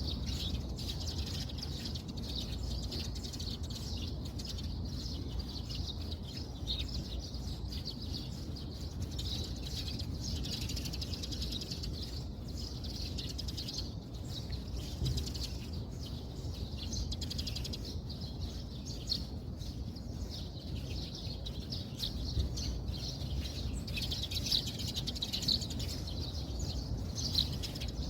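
Outdoor ambience: continuous high-pitched chirping over a steady low background rumble.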